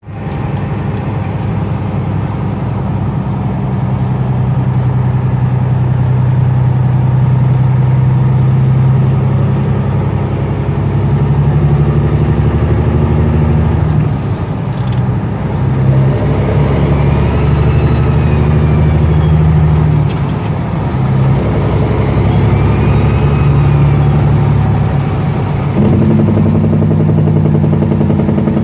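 Peterbilt truck's Caterpillar 6NZ inline-six diesel running loud through straight stacks. In the second half the turbo whistle rises and falls twice as the engine pulls and lets off, and the engine note steps up again near the end.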